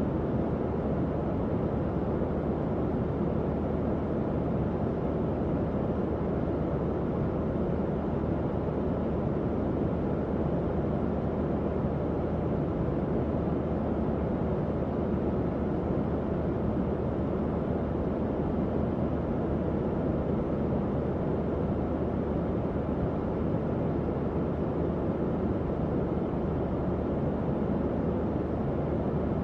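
Tower fan running steadily: an even rush of air, weighted toward the low end, with a faint low motor hum underneath.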